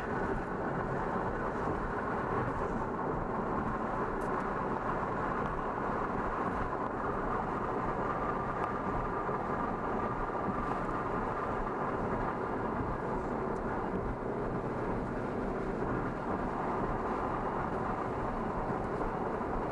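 Steady rushing noise, strongest in the low and middle range, holding an even level with no distinct events.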